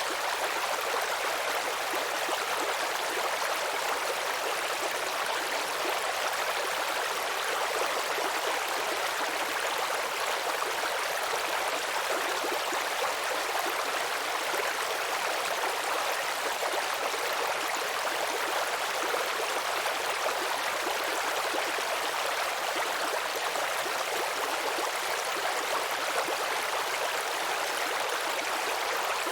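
Small stream babbling and trickling over stones in a steady, unbroken rush of running water.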